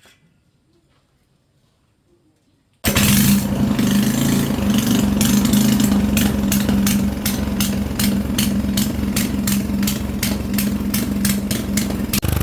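Small gasoline engine running, coming in abruptly about three seconds in after near silence, a steady hum with a regular ticking a few times a second.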